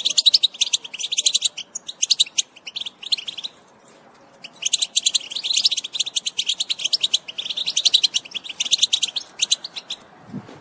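European goldfinches chattering together: rapid twittering calls in bursts, with a pause of about a second partway through. The chattering stops shortly before the end.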